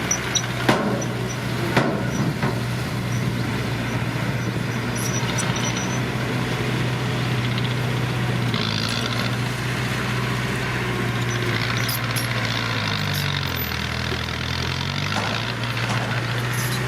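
Heavy diesel engine of earthmoving machinery running steadily, with a few sharp clanks in the first two seconds. About three-quarters of the way through, the engine's pitch sags and then comes back up.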